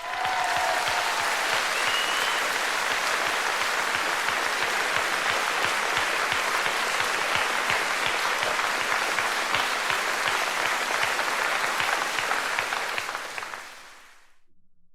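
Crowd applause, a dense steady clatter of many hands clapping with a brief whistle near the start, fading out near the end.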